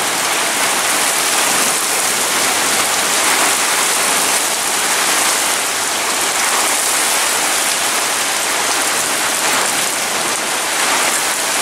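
Heavy rain pouring steadily onto wet pavement, an even hiss that holds at one level throughout.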